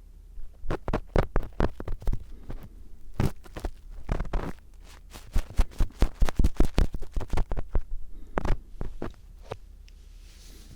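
Star-tip screwdriver scraping and tapping close against the microphone in ear-cleaning ASMR: a run of sharp, scratchy clicks, quickest and densest from about five to seven and a half seconds in, then thinning out near the end.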